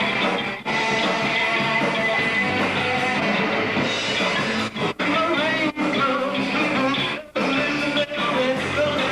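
Hard rock band playing live: guitars, bass and drums. The sound cuts out for an instant several times.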